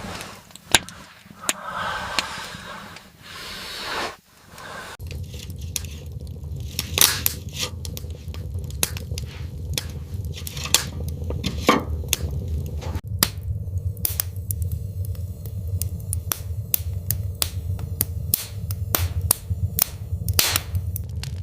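Wood fire crackling, with irregular sharp pops over a steady low rumble, coming in about four seconds in.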